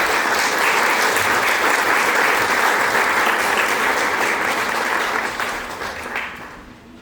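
Theatre audience applauding at the end of a scene, dense clapping that tapers off and dies away near the end.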